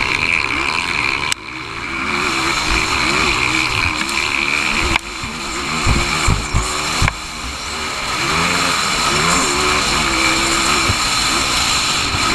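Motocross motorcycle engines racing, their pitch rising and falling with throttle and gear changes. The sound breaks off abruptly a few times.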